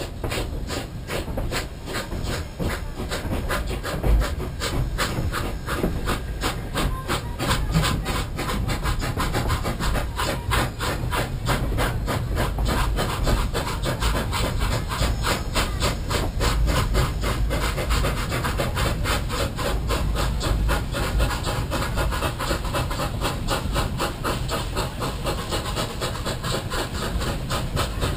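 Narrow-gauge steam locomotive exhaust chuffing in a steady rhythm, several beats a second, over a low rumble.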